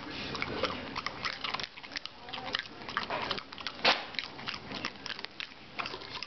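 Dog crunching and chewing an ice cube: a quick, irregular run of crunches, the loudest about four seconds in.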